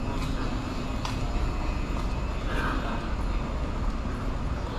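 Steady hum and whoosh of a stationary JR Shikoku 8600 series electric train's onboard equipment running, with a low rumble underneath.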